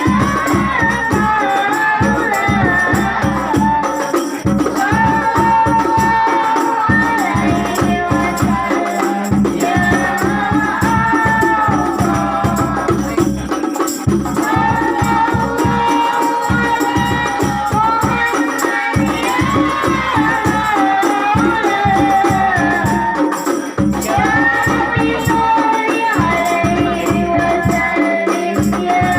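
Islamic devotional song (sholawat) sung in Arabic over a fast, steady percussion rhythm with rattling jingles; the long sung phrases pause and restart every few seconds.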